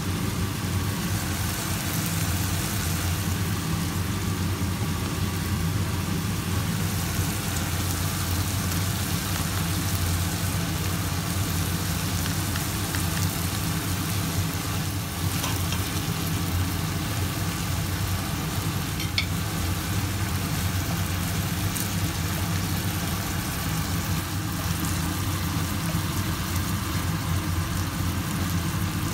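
Beef, onions and blended red chilli paste sizzling in hot oil in a pan, steady throughout, over a steady low hum. A couple of light taps come through partway in.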